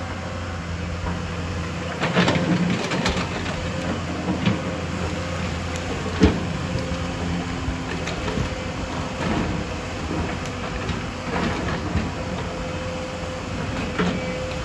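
Excavator diesel engine running steadily under load, with irregular metallic knocks and clanks from the machine at work, the loudest about six seconds in.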